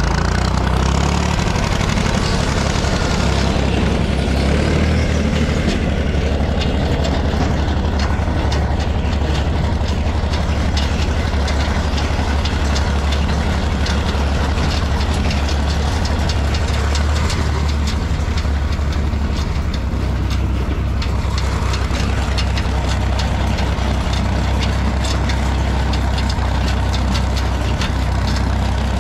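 A vehicle engine running steadily at idle, a low, even drone.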